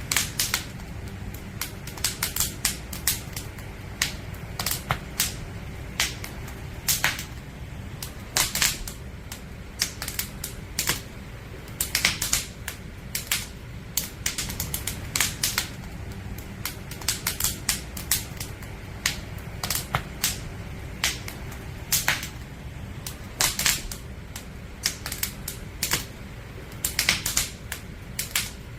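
Wood campfire burning, the logs crackling and popping in irregular sharp snaps, several a second at times, over a steady low rumble.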